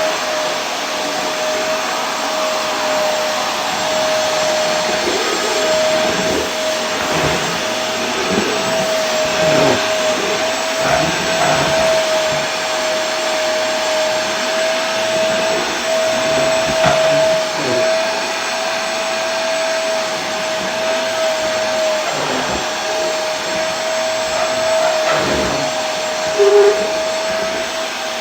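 Vacuum cleaner running steadily: a continuous rushing hiss with a steady whine over it, and a brief louder blip near the end.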